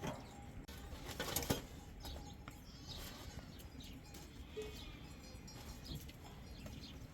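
Birds chirping in short, repeated calls, with a brief clatter of knocks about a second and a half in.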